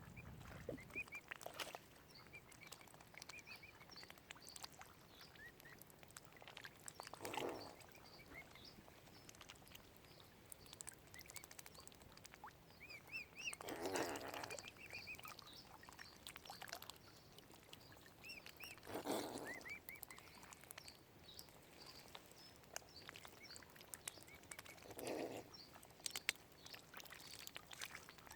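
Waterfowl calling: four short, low calls spaced several seconds apart, over faint high peeping and chirping throughout.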